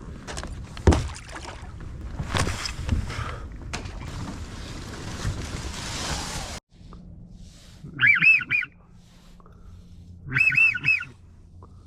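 Rustling and knocking from handling and movement, which cuts off suddenly about two-thirds of the way in. Then come two short bursts of duck whistling, each about three arched whistled notes, typical of drake wigeon or teal.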